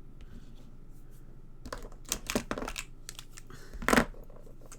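A few light clicks and taps from handling craft supplies on a desk, with a louder knock about four seconds in.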